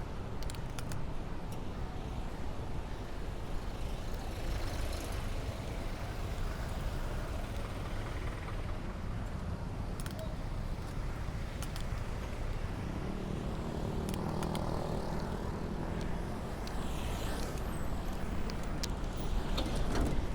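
Wind rushing over the microphone and street traffic heard from a moving bicycle. About two-thirds of the way through, a vehicle's engine hum grows louder for a few seconds.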